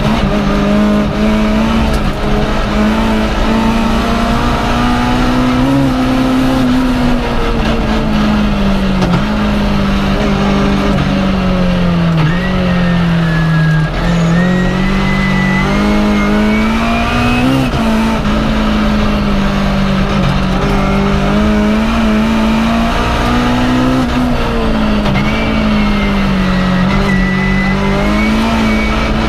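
BMW M3 E30 rally car's four-cylinder engine, heard from inside the cabin, driven hard at high revs. The engine note climbs and drops again and again as the driver works the throttle and the gears.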